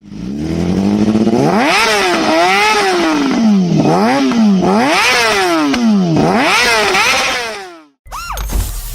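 Yamaha YZF-R6 inline-four engine through an aftermarket exhaust, idling briefly and then revved up and down five or six times before the sound fades out. Near the end a different exhaust on the same bike is heard in one sharp, quick rev blip.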